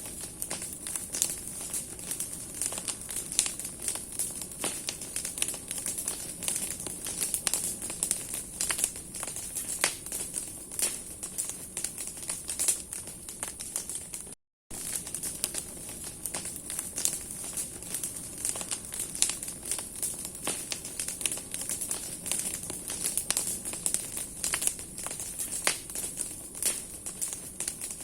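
Large bonfire of branches burning, with dense, irregular crackling and popping of the wood over a steady hiss of flame. The sound cuts out for a moment about halfway through.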